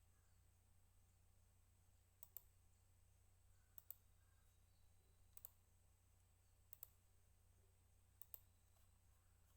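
Computer mouse button clicked five times, each a quick pair of clicks, about one and a half seconds apart, faint over a low steady hum.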